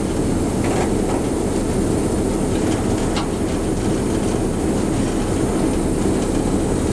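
A moving train: a steady rumble of wheels on rail and engine, with a few sharp clicks as wheels cross rail joints.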